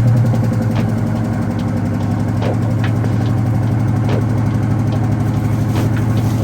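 1989 Chevrolet Caprice Classic's engine idling steadily just after starting, easing down in the first second.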